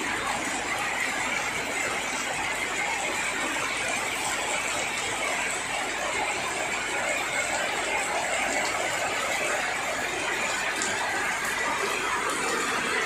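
Steady rainfall: an even, dense hiss with a few faint separate drop ticks.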